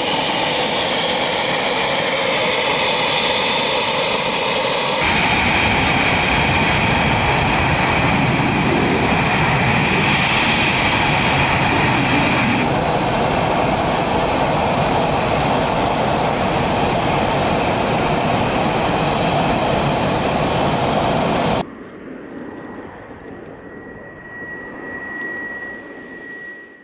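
Military jet engines running loud and steady, with abrupt changes about 5 and 13 seconds in. About 22 seconds in it drops sharply to a quieter jet hum with a thin, steady high whine near the end.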